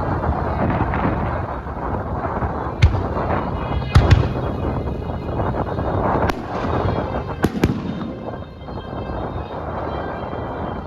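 Aerial fireworks shells bursting over a continuous rumble and crackle, with several sharp louder bangs, two of them close together near the middle.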